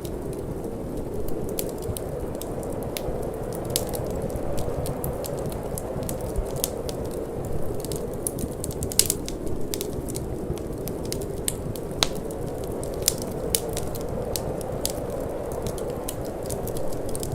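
Wood fire crackling, with frequent irregular sharp pops, a few louder ones about halfway through, over a steady low rush of wind.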